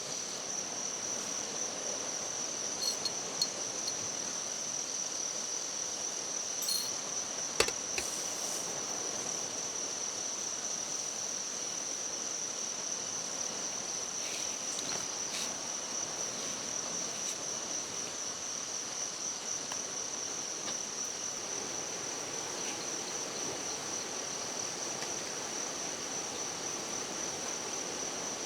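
Insects chirring in a steady, high-pitched continuous drone over a faint forest hiss. A few sharp clicks or knocks come in the first third.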